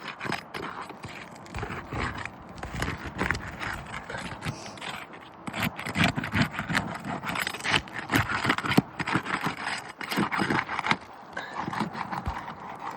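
Irregular scraping and scuffing on asphalt roof shingles, with many short clicks and knocks, busiest in the middle and easing off near the end.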